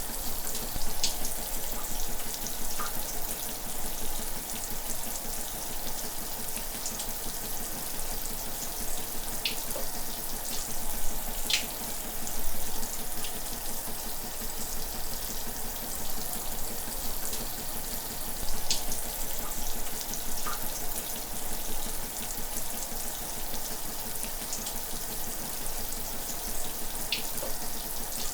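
Shower spray running steadily, an even hiss of falling water with occasional brief splashes.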